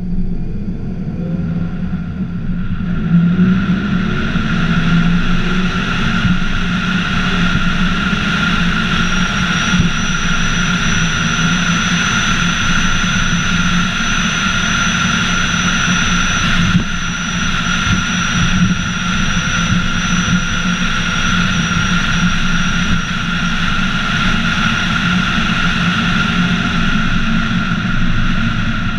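Scion tC's four-cylinder engine and road noise while driving, heard from a camera mounted on the hood. The engine note rises in the first few seconds as the car accelerates, then holds steady while cruising.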